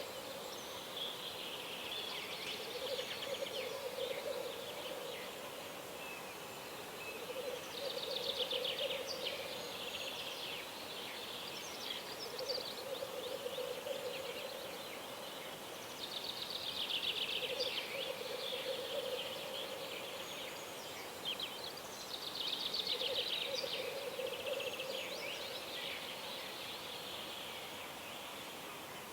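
Wild birds singing at dawn: trilled song phrases repeating every seven or eight seconds, over a lower-pitched call that comes back every couple of seconds.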